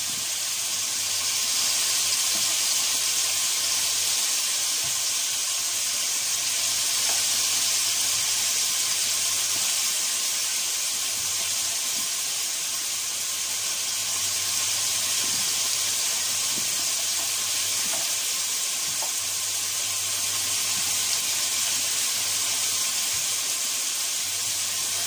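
Chopped onions, carrots and peppers sizzling steadily in a frying pan, an even hiss with a low steady hum underneath. A few faint clicks come through now and then.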